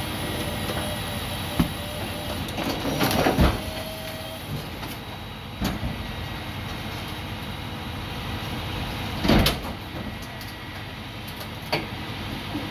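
A truck running steadily under a series of metallic clanks and bangs, the loudest about three seconds in and about nine seconds in.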